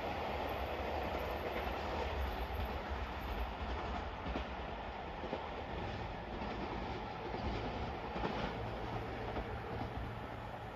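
JR Hokkaido 721 series electric multiple unit running away down the line, its wheels clattering over the rail joints. The sound slowly fades as it recedes.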